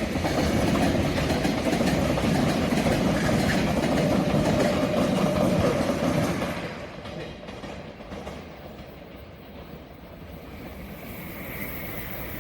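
A train running past on the rails, wheels clattering over the track, loud and steady; about six and a half seconds in it falls away sharply as the train clears, leaving a much quieter rumble.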